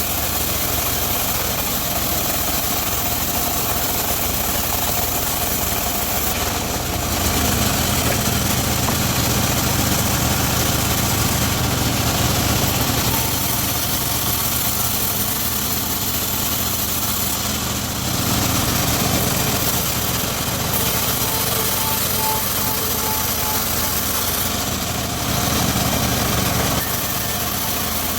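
Engine of a homemade circular saw rig running steadily, growing somewhat louder for a few seconds three times: from about a quarter of the way in, around two thirds in, and near the end.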